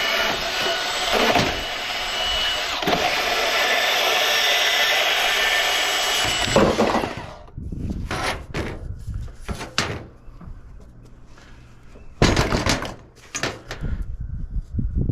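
A power tool cutting scrap aluminum runs with a steady whine for about seven seconds, then stops. Several separate knocks and clanks follow.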